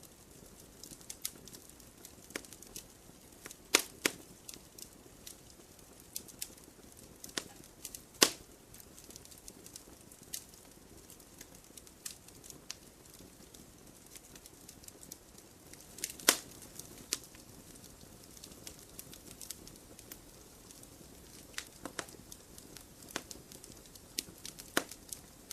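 Wood campfire crackling: irregular sharp pops and snaps over a faint low hiss, with a few louder pops about four, eight and sixteen seconds in.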